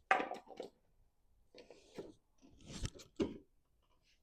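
Hands working on mower parts with tools: a few short clicks, scrapes and knocks with pauses between them.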